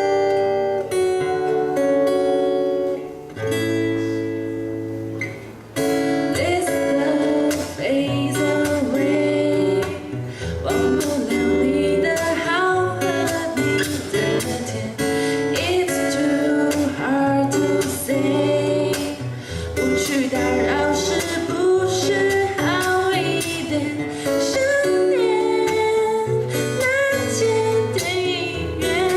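Two guitars playing a song, and about six seconds in a female voice begins singing over them.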